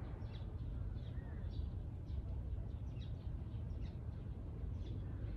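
Small birds chirping, short high chirps repeated every half second or so, over a steady low outdoor rumble.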